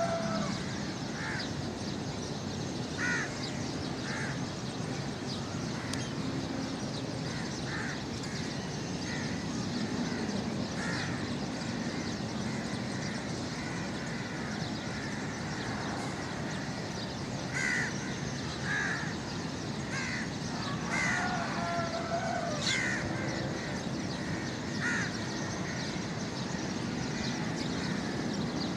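Birds calling in short, repeated calls scattered through the stretch, coming thicker about two thirds of the way in, over a steady background rush.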